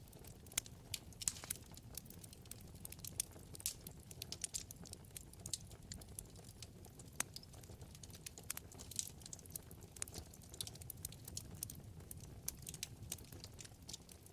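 Wood fire in a fireplace crackling: frequent, irregular sharp pops and snaps over a steady low rumble of flames.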